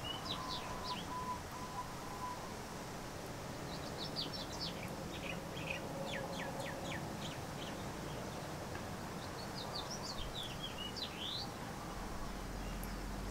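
Small birds chirping in three bouts of quick, high, downward-sweeping notes over a low steady background hum.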